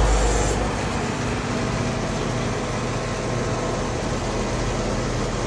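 Newly installed Goodman HVAC system running: a steady mechanical hum with air noise. A deeper rumble drops away less than a second in.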